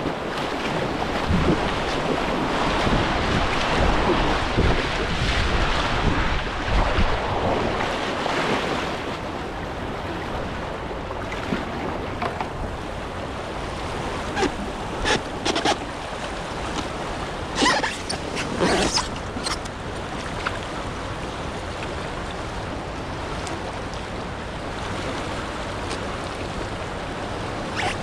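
River water rushing around a kayak, louder over the first several seconds, with a few short sharp splashes in the second half.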